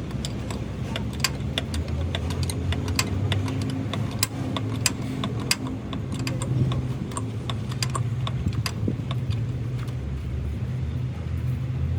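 An engine running steadily, with irregular sharp metallic clicks and clinks over it, thinning out near the end.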